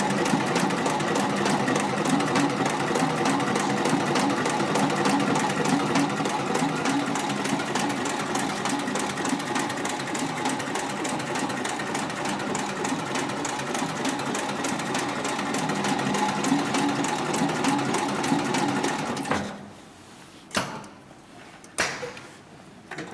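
HIGHTEX 7204-MD heavy-duty industrial sewing machine running steadily at speed, its needle stroking in a rapid even rhythm. It stops abruptly near the end, followed by a few short sharp clicks.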